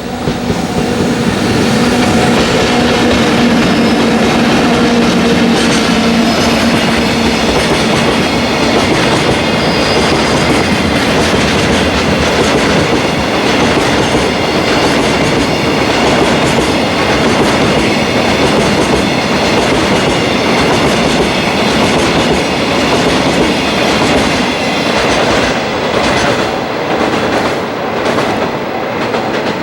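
Freight train of double-headed EF64 electric locomotives and empty oil tank wagons rolling past, with continuous loud wheel and rail noise. A steady hum fades in the first several seconds, then the tank wagons clatter on with clickety-clack wheel beats, clearest near the end.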